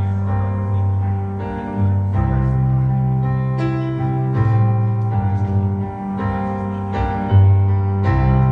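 A rock band playing a slow instrumental passage led by piano: sustained chords over a bass line, changing every second or so.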